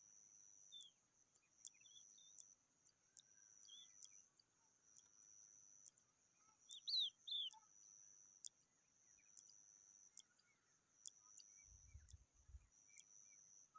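Faint, scattered bird chirps, with two louder downward chirps about halfway through, over a high, steady insect trill that keeps breaking off and starting again. A brief low thump comes near the end.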